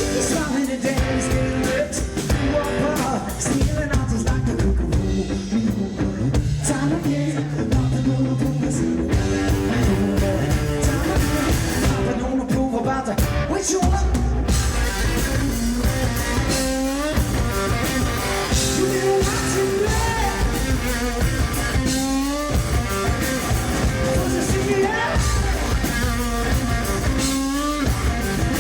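Two-piece rock band playing live: distorted electric guitar and drum kit with a singer's vocals.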